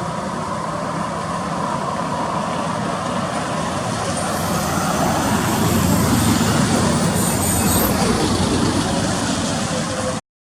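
Motor vehicle engine running with road noise, swelling louder about halfway through and then easing off. The sound cuts off suddenly just before the end.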